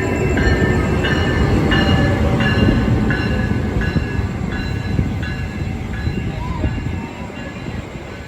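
NJ Transit passenger train hauled by an ALP-46 electric locomotive rolling in while slowing. A heavy rumble and clatter runs under high-pitched squealing from the wheels and brakes, which breaks into short segments shifting in pitch. It grows quieter about seven seconds in.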